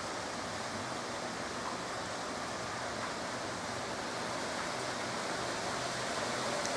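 Heavy downpour of rain: a steady, even rushing hiss.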